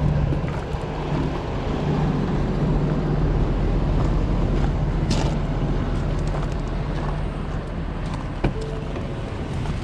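Truck engine running steadily with a low hum, a short hiss about five seconds in and a sharp click near the end.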